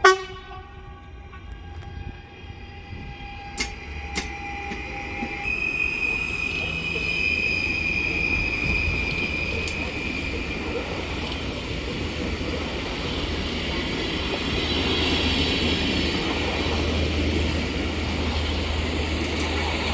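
A train running along the tracks through a station, its rail noise building from about six seconds in and staying steady, with a steady high-pitched whine over it for the first half. A single sharp knock sounds right at the start.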